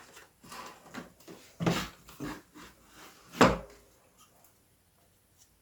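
Plastic casing of a Casio CTK-7300IN keyboard being worked loose and lifted off by hand: a run of knocks and scrapes, the loudest knock about three and a half seconds in, and the handling stops soon after.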